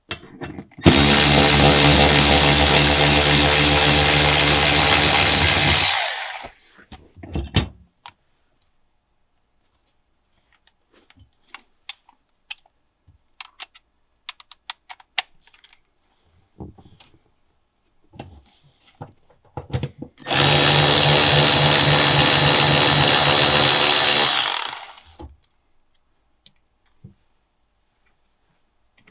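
Electric impact driver running in two bursts of about five seconds each, backing out the fasteners that hold the rear-seat storage frame. Small clicks and handling noises come between the bursts.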